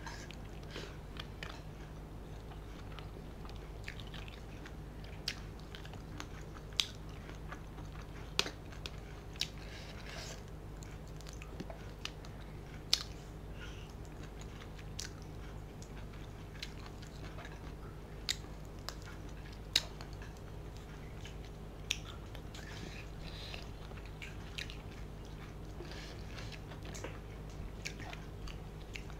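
Close-miked eating sounds: chewing on mouthfuls of rice and fish curry eaten by hand, with scattered sharp clicks and smacks at irregular moments. A steady low hum runs underneath.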